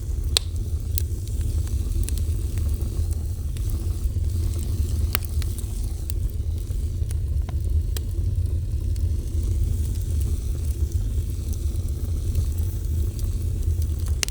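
Fire burning with a steady low roar, crackling, and scattered sharp pops every second or two.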